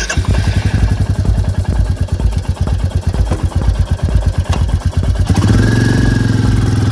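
Royal Enfield Meteor 350's single-cylinder engine idling with a rapid, even thump. About five seconds in it picks up speed and runs smoother and a little louder.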